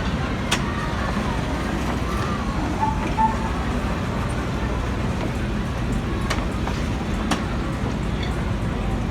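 Steady low rumble of a vehicle in motion, with a few short sharp clicks and faint voices in the first few seconds.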